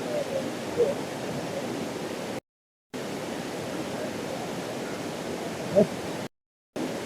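Steady rush of flowing water from a waterfall, an even hiss. It cuts out to dead silence twice, about 2.5 s and 6.3 s in, and a brief pitched cry sounds just before the second gap.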